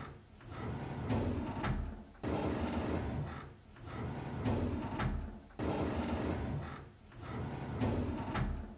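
A drawer sliding open, a rumbling scrape that ends in a sharp click. It repeats about every three seconds, so it is heard about three times.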